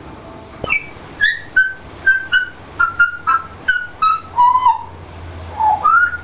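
African grey parrot whistling a quick run of about a dozen short clear notes, some gliding, ending on a rising whistle.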